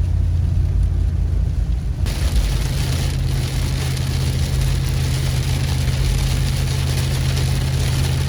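Vehicle engine running steadily with a low hum. About two seconds in, the steady hiss of heavy rain joins it.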